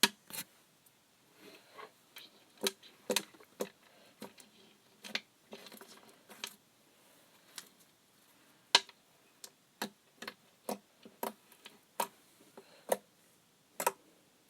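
Slime being handled, giving irregular sharp clicks and pops, about twenty of them, with a softer squishy stretch near the middle.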